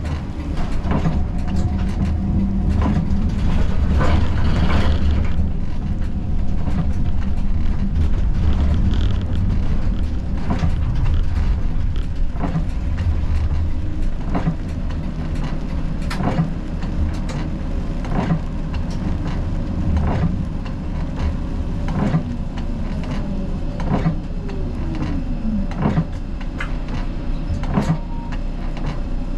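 Siemens Combino tram running on street track: a steady low rumble with irregular clicks and knocks from the wheels on the rails, and a falling whine near the end.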